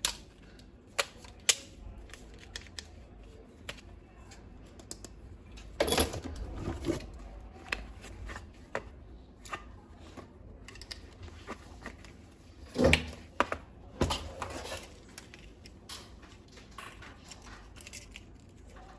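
Plastic toy parts being handled: scattered sharp clicks and knocks, with two louder clusters of clatter about six seconds in and again about thirteen seconds in.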